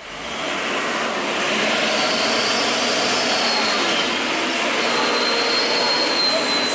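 Heavy truck running on the road: a steady loud rushing noise that builds over the first second and a half, with a faint high whine on top.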